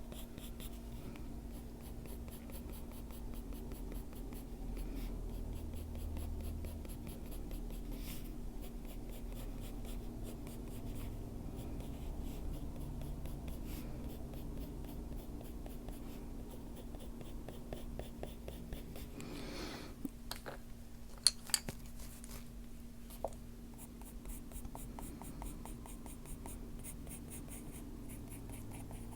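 Colored pencil, a Faber-Castell Polychromos dark sepia, scratching on paper in quick, short, repeated strokes while shading fur. A few sharp clicks about two-thirds of the way through.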